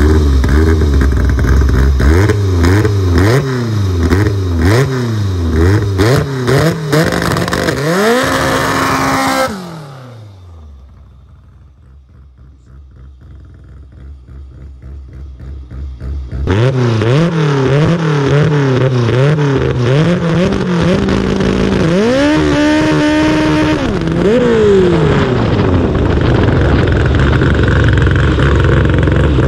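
Honda CRX's K24 four-cylinder engine idling, then revved again and again in quick rises and falls. Its sound falls away steeply and stays faint for several seconds as the car is far off, then is close and loud again, revving up and down, holding high revs briefly, dropping, and running steadily.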